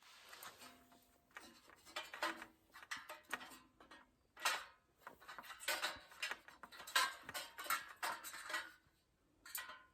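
Irregular clatter of small hard objects being handled: clicks, knocks and scrapes, with a few brief metallic clinks.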